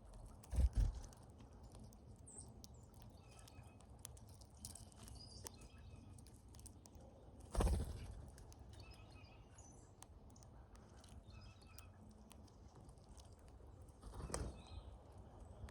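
Brown-headed cowbirds at a feeder giving many short, scattered chirps and calls, with three dull thumps: about a second in, around the middle, and near the end.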